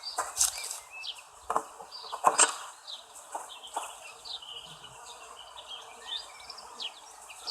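Birds chirping in outdoor ambience, with a few sharp knocks in the first two and a half seconds, the loudest about two seconds in.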